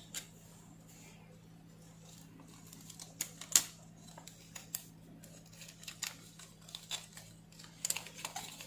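Scattered small clicks and scrapes of plastic and metal parts being handled as a rechargeable hair trimmer is taken apart and its circuit board pulled out, the sharpest click about three and a half seconds in and a few more near the end. A faint steady low hum runs underneath.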